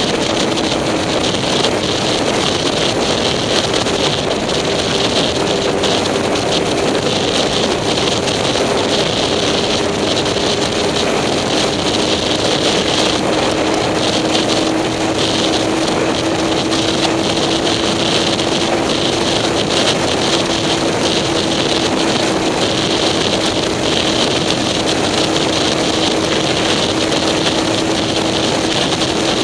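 A vehicle underway at a steady speed: an even engine hum whose pitch drifts slowly lower, under continuous road and wind noise on the microphone.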